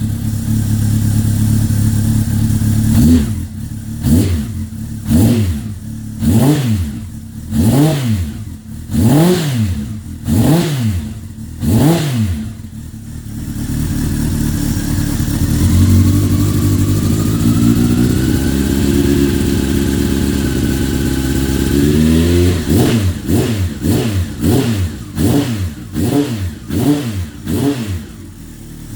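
Honda CB1300 Super Four (SC40) inline-four engine through an aftermarket Combat muffler, idling and then revved in about eight short throttle blips roughly a second and a half apart. It is then held at higher revs that creep slowly upward for several seconds, followed by a quicker run of short blips before dropping back to idle.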